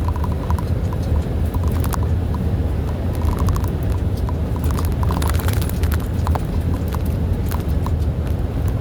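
Truck running on the road: a steady low drone with many scattered clicks and rattles over it.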